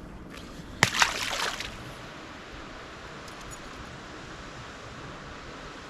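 A sharp knock and a brief splash of water about a second in, then a steady watery hiss.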